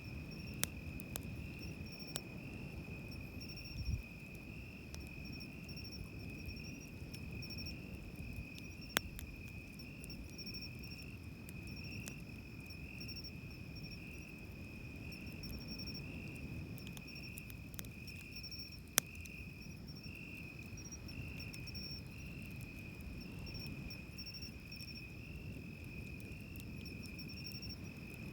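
An insect trilling continuously at one high, steady pitch with a gentle pulsing, over the low steady wash of surf. A few sharp pops from a wood campfire stand out now and then.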